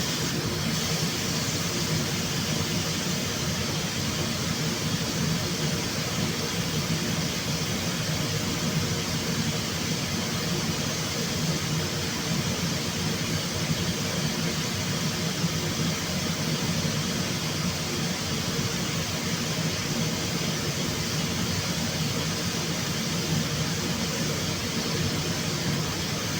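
Steady hum and hiss of workshop machinery running without a break.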